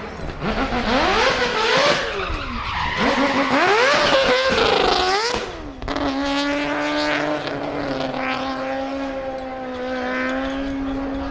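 Mazda rotary-engined drift car revving up and down repeatedly amid tyre squeal. About six seconds in it settles into a steady, held high engine note.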